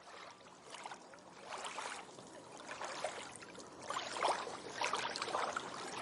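Sea water splashing and sloshing against a sailing yacht's hull in irregular surges, about one a second, louder in the second half.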